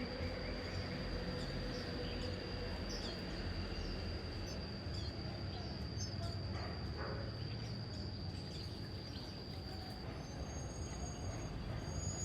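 Outdoor countryside ambience: a steady high-pitched insect drone with short bird chirps scattered through it, mostly in the first half.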